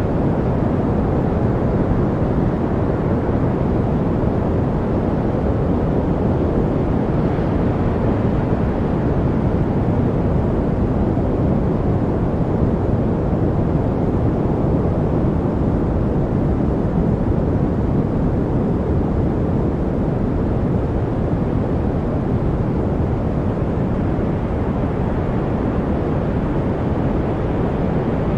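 Steady, unchanging noise track, deep and rushing rather than hissy, with most of its weight in the low range and little treble.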